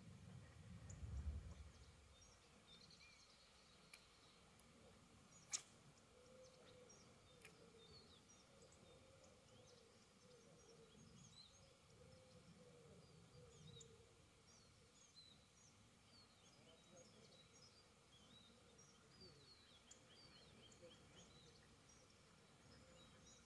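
Faint birdsong: many short, high chirps from small birds scattered through, thickest in the second half. A brief low rumble about a second in and one sharp click about five seconds in.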